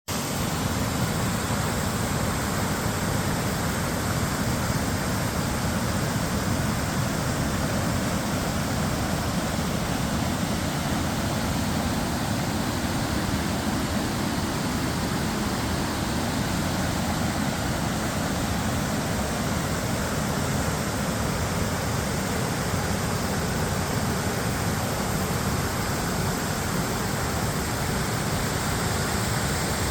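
Waterfall rushing: a steady, even roar of falling water that holds unchanged throughout.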